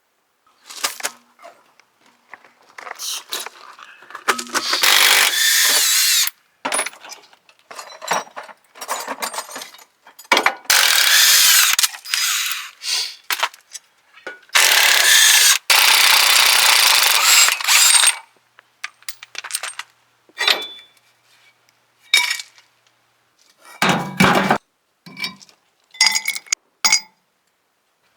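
Power tool running in three bursts of a few seconds each, undoing fasteners while parts are pulled from a junked vehicle, with clanks and clicks of metal tools and parts in between.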